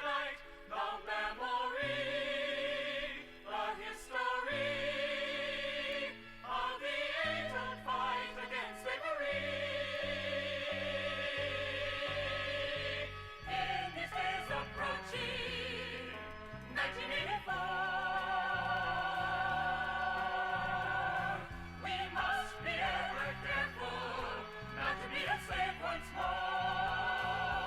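Rock opera music: a choir sings long held, wavering notes over a moving bass line, with the chords changing every few seconds.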